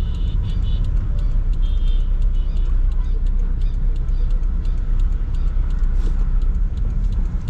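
Steady low rumble of engine and road noise inside a Toyota Sprinter AE110 while it drives, with faint high chirps in the first couple of seconds.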